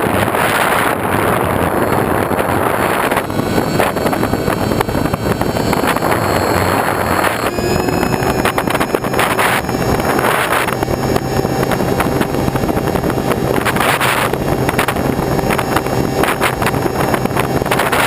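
Loud, steady wind noise buffeting the microphone, with a faint engine hum underneath from about eight seconds in.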